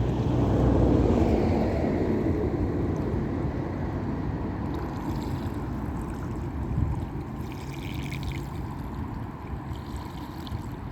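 Dickie Toys RC fire boat running on the water: a faint steady whine from its small electric motor over the splashing and churning of water, louder in the first couple of seconds.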